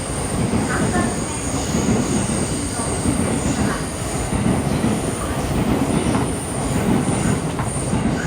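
JR East E235 series 1000 electric multiple unit running at speed: a steady rumble of wheels on rail, with faint brief high wheel squeals.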